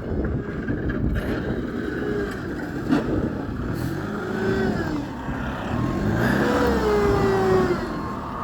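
Engine of a municipal snow-clearing vehicle running as it works, its pitch rising and falling as it revs up and down.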